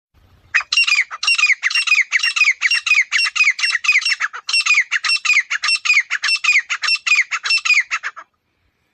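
Grey francolin calling: a fast series of shrill, harsh notes, several a second, each sliding down in pitch. It starts about half a second in and stops abruptly shortly before the end.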